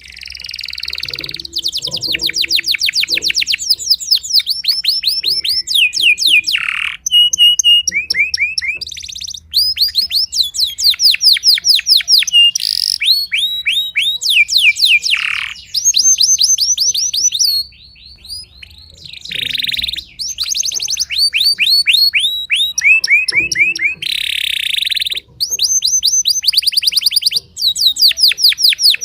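Timbrado canary singing long phrases of rapid repeated notes and trills, with a short pause about eighteen seconds in.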